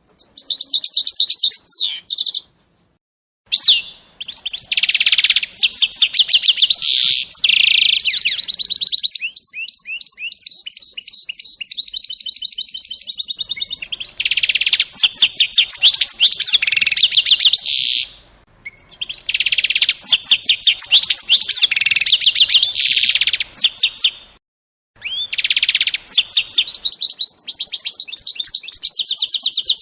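A songbird singing close by in long, loud phrases of fast trills and rapidly repeated high notes, with short pauses between the phrases.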